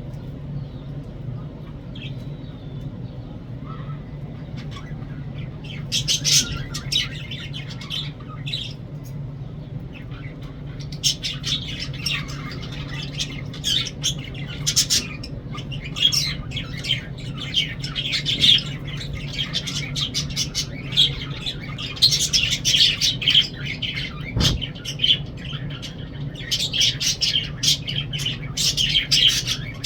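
Lovebirds chattering in rapid, high-pitched chirps and squawks that start about six seconds in and soon become almost continuous, over a steady low hum.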